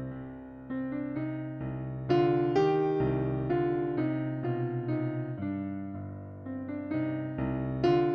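Background music: a slow electric piano playing sustained chords, a new note or chord every second or so.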